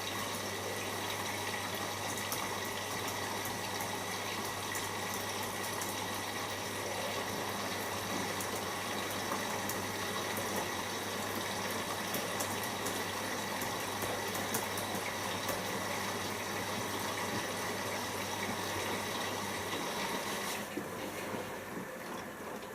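Siemens iQ washing machine taking in water for the first rinse: a steady rush of water with a low mains hum, which cuts off about twenty seconds in as the fill stops.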